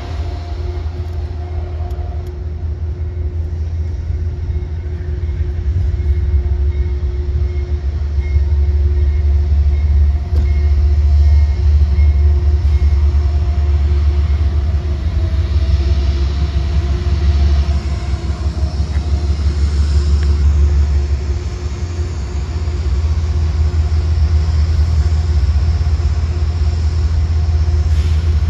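Amtrak passenger train's diesel locomotive running at the station with a steady hum, under a heavy low rumble and wind buffeting the microphone.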